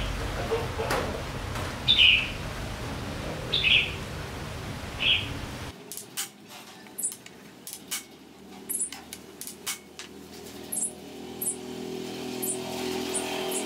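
Birds chirping in short calls every second or two over a steady low hum that stops about six seconds in; after that, higher, thinner chirps mixed with scattered sharp clicks and taps.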